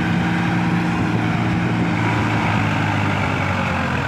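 The 855 tractor's diesel engine running steadily at a constant pitch.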